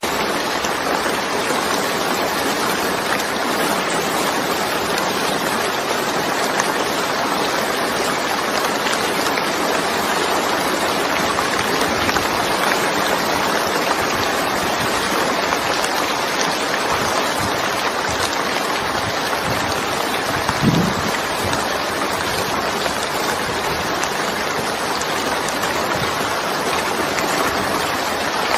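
Heavy rain falling steadily, an even rushing hiss, with one brief low thump about 21 seconds in.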